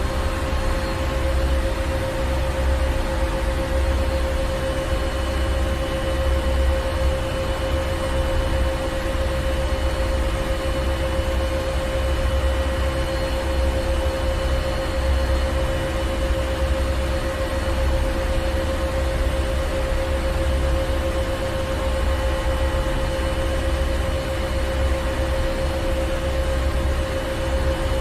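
Ship's engine room: heavy machinery running steadily, a deep rumble with a constant hum over it.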